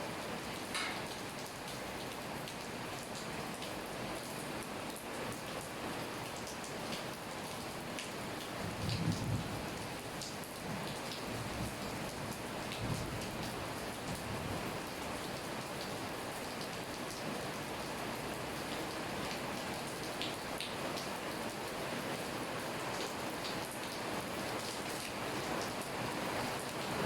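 Steady rain falling, an even hiss of drops hitting surfaces, with a brief low rumble about nine seconds in.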